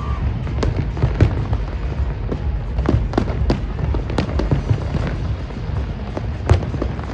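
Fireworks bursting overhead: a steady low rumble with sharp bangs and crackles at irregular intervals, the loudest near the start and about six and a half seconds in.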